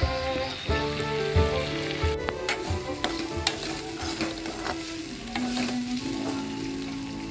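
Food frying and sizzling in a pan while being stirred, with scattered clicks of the utensil against the pan.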